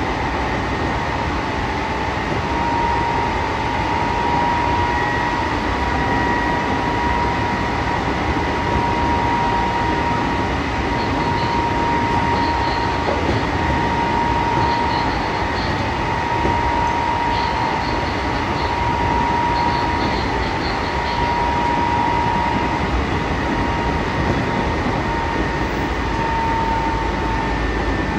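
Running sound from on board an Odakyu 8000 series electric train with field-chopper control, moving at a steady speed. A steady rumble of the car carries a constant high whine.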